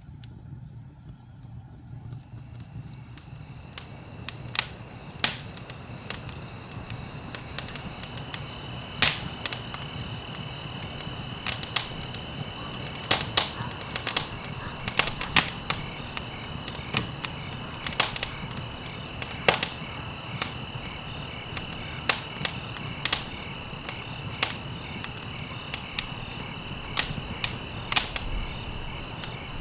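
Wood fire crackling and popping, with sharp snaps coming every second or so over a low steady rumble. A steady high-pitched chirring tone comes in about three seconds in and carries on underneath.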